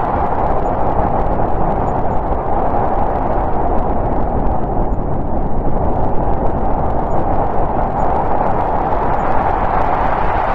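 Snowstorm wind blowing steadily with a hollow howl, swelling and easing slowly, over a low rumble.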